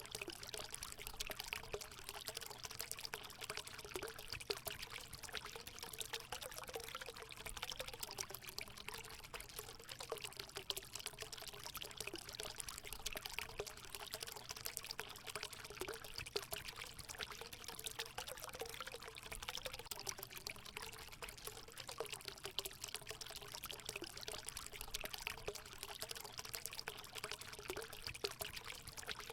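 Water pouring and trickling steadily into a hot spring pool, a constant splashing with a low gurgling note.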